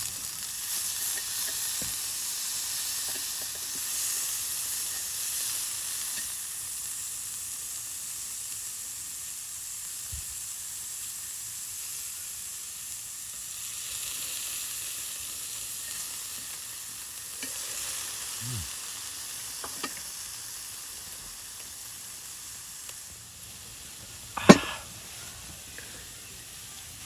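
Food sizzling in a hot pan, a steady frying hiss that swells and eases, with a few light ticks and one sharp knock about 24 seconds in.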